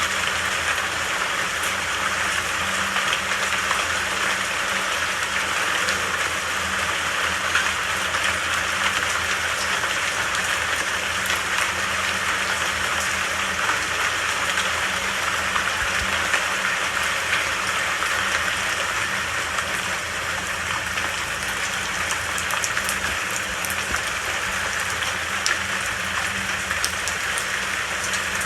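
Steady, heavy rain falling, a continuous hiss with scattered faint drop ticks.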